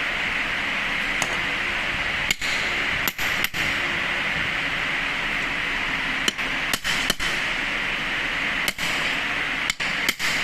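About ten sharp knocks of a tool on metal, at uneven spacing and some in quick pairs, over a steady hiss, during work on a car AC compressor.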